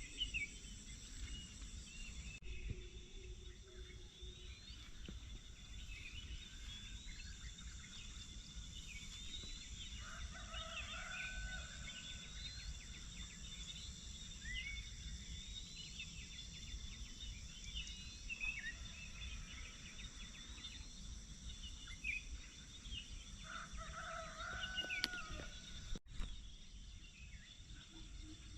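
Rural dawn ambience: many small birds chirping throughout over a steady high insect drone. A rooster crows twice, about ten seconds in and again near the end.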